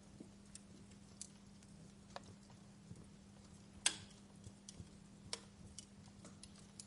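Wood fire crackling in a fireplace: sparse, irregular pops and snaps, the loudest about four seconds in, over a faint steady low hum.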